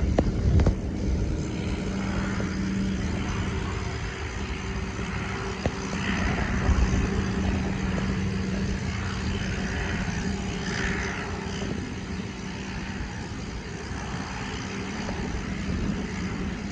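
Aircraft engine running with a steady low hum over a rumbling roar, with wind buffeting the microphone in the first second. It cuts off suddenly at the end.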